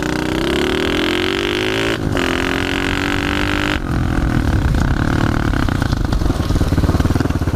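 Pit bike engine revving up through the gears. Its pitch climbs for about two seconds, dips briefly as it shifts, and climbs again. Just before four seconds in the throttle snaps shut, and the engine drops to a low, pulsing run.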